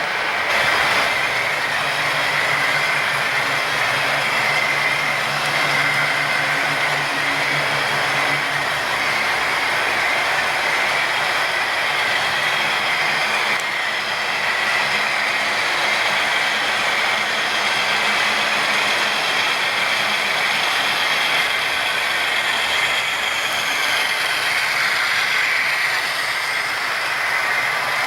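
HO-scale model train running on the layout: a steady motor whine with the rattle of wheels on the rails.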